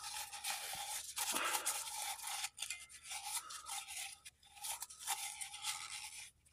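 Wiping the inside of a car heater blower motor's housing dry: irregular rubbing and scrubbing strokes with short pauses.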